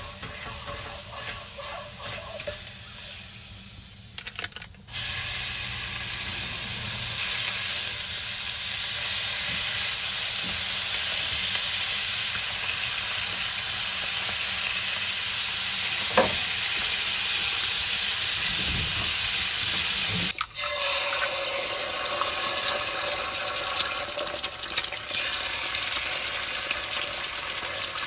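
Food sizzling in a frying pan, a steady hiss that changes abruptly a few seconds in and again near the end, as if cut between takes.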